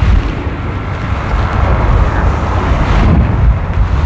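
Strong wind buffeting the microphone, a loud, steady low rumble with no clear pitch.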